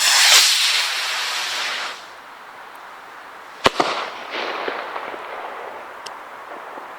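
Zink firework rocket launching with a loud rushing hiss for about two seconds, then bursting with a sharp bang nearly four seconds in, followed by a trail of fading crackles.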